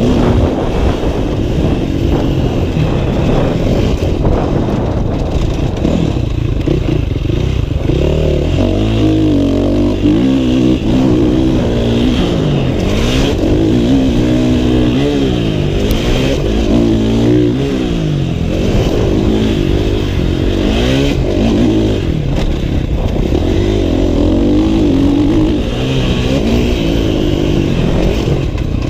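Motocross dirt bike engine ridden hard, revving up and dropping back over and over as the throttle is opened and closed, its pitch rising and falling every second or two.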